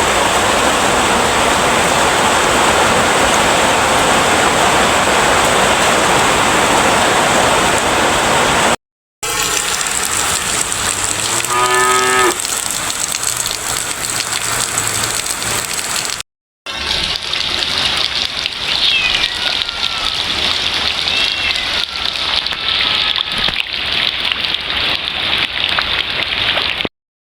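Heavy rain pouring down steadily, heard in three stretches with short silent breaks between them; the first stretch is the heaviest. A little past a third of the way in, a short pitched call rises over the rain, and near the end a few thin falling whistles sound.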